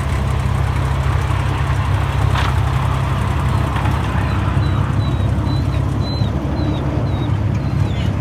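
Miniature railway locomotive running with a steady low rumble.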